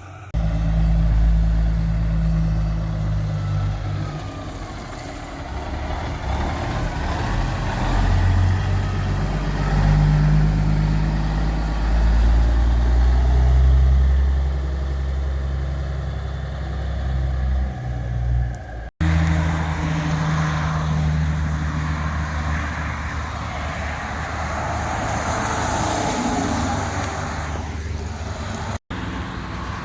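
Heavy truck engines running and passing by, a strong low engine note that shifts in pitch, with road noise. The sound breaks off abruptly twice, about two-thirds of the way in and again near the end, where clips are spliced together.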